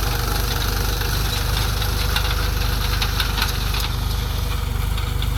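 Mahindra 275 TU tractor's three-cylinder diesel engine running steadily with an even pulse, with scattered clicks and rattles over it.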